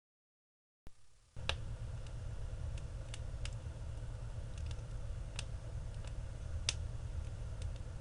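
Steady low rumble inside a moving vehicle's cabin, starting abruptly about a second in, with about a dozen irregular sharp ticks and clicks over it.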